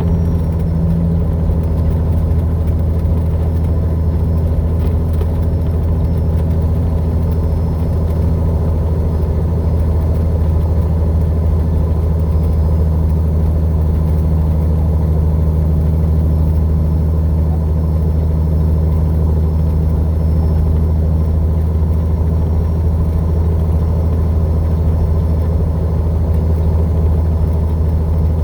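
Heavy truck's engine pulling steadily uphill under load in third gear at about 1600 RPM, a constant low drone heard from inside the cab.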